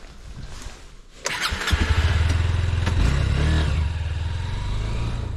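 Honda CB200X motorcycle engine starting about a second in, with a short burst of cranking before it catches. It then runs with a low rumble, the revs rising and falling briefly near the middle before settling.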